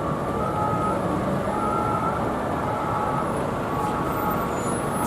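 Two-tone hi-lo siren of French police vehicles, alternating between a higher and a lower note about twice a second, heard over steady city traffic noise.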